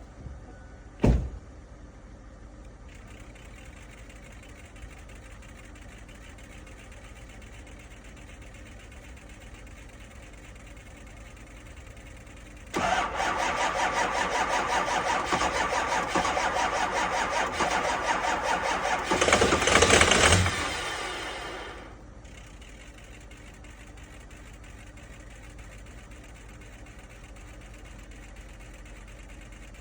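Starter cranking a cold 6.0 L Powerstroke V8 turbo diesel for about nine seconds in a fast, even rhythm. The cranking grows louder for a second or two near the end, then winds down without the engine starting: a cold no-start in 15-degree weather. A single sharp thump sounds about a second in.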